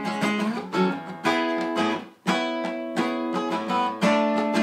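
Acoustic guitar strummed chords, with a brief gap about two seconds in before the strumming starts again.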